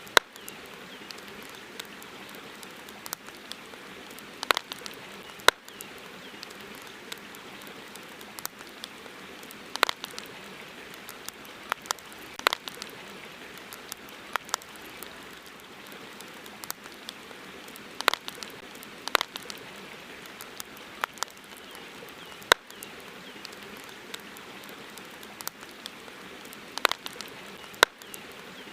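Wood fire crackling: irregular sharp pops and snaps, a few much louder than the rest, over a steady hiss.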